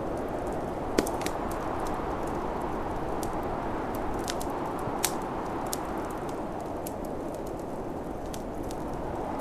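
Wood fire crackling with frequent sharp snaps and two louder pops, about a second in and about five seconds in, over a steady low rush of snowstorm wind.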